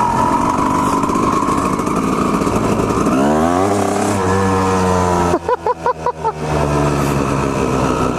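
Two-stroke dirt bike engine held at high revs, then falling off to a lower, steady note about three seconds in. Past halfway it stutters for about a second, the sound rapidly cutting in and out, then runs on steadily.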